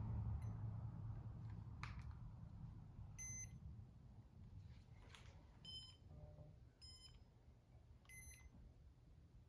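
Four short electronic beeps from a Casablanca Comfort Touch ceiling fan's remote control system as its buttons are pressed to change speed, with a single click before them. A low ceiling-fan motor hum fades away underneath.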